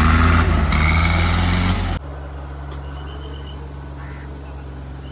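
Vehicle engine running steadily, loud for about two seconds, then after a sudden cut quieter, with a faint high pulsing tone over it.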